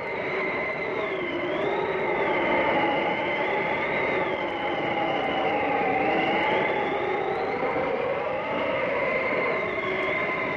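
Blizzard wind howling over a steady rushing noise, with several whistling tones that slowly rise and fall in pitch.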